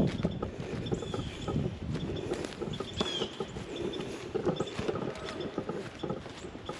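Footsteps of a person walking over wet, muddy ground: a run of irregular soft crunches and knocks.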